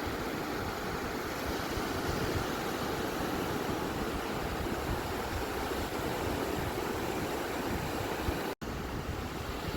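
Ocean waves washing on a beach as a steady, even rush of surf. Near the end the sound drops out completely for a split second.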